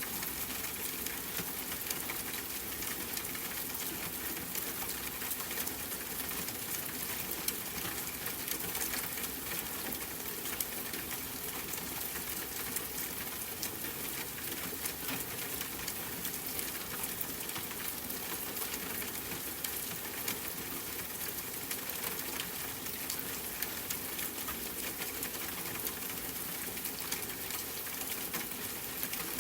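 Steady rain with a dense patter of fine drops, even throughout.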